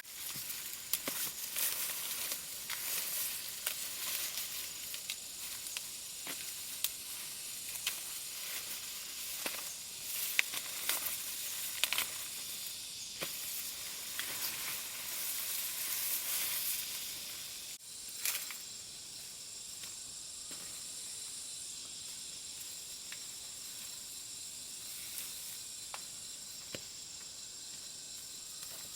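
Dry plant material crackling and rustling, with many sharp clicks, for most of the first two-thirds. It changes suddenly to a steady, high chirring of insects.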